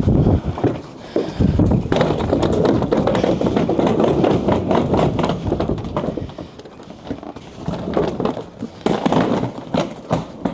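A person moving about: footsteps and irregular knocks and clatter, busiest in the first half, easing off after about six seconds and picking up again near the end.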